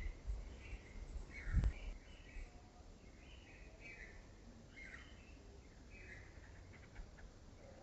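Small birds chirping repeatedly in the background, with a low rumble and a faint click about a second and a half in.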